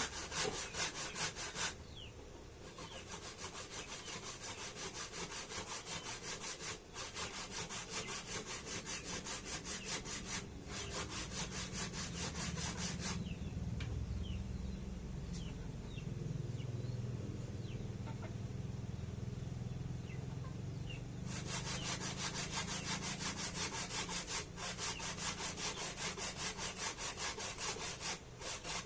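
Food being grated by hand on a grater: quick, even back-and-forth rasping strokes that go on without a break. The strokes sound duller for several seconds in the middle.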